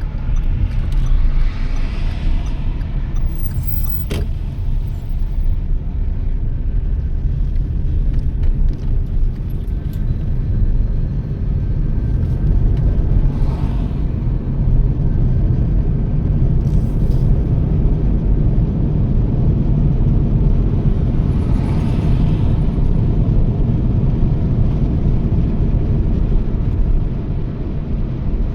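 Toyota Yaris driving steadily at speed: a continuous low engine and road rumble, with three short whooshes along the way.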